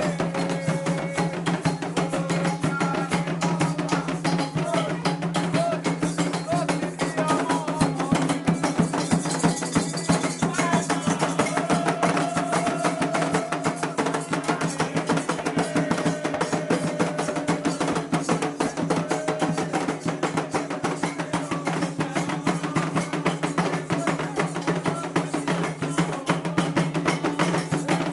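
Candomblé ritual music: fast, steady drumming on atabaque hand drums under a group singing a chant, with held, wavering sung notes.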